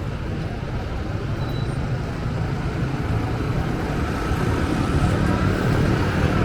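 Wind buffeting the microphone: a steady, irregular low rumble that grows a little louder toward the end.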